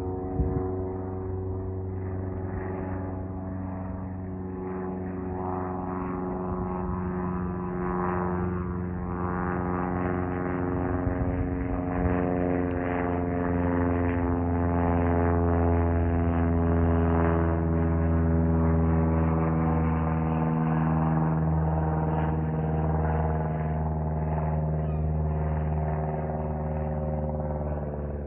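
Aircraft flying past: a steady droning hum whose pitch slowly falls as it passes. It grows louder toward the middle and fades near the end.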